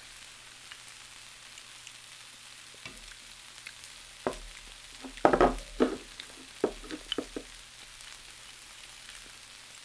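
Close-miked chewing and crunching of chicken gizzards, in a few short bursts over a faint steady hiss.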